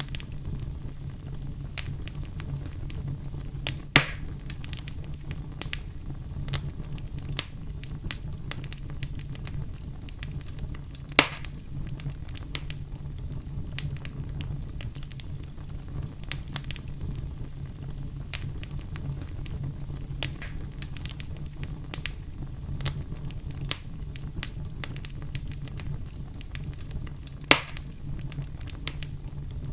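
Wood fire burning in a fireplace: a steady low rumble of the flames with a constant scatter of small crackles and three louder sharp pops, about 4, 11 and 27 seconds in.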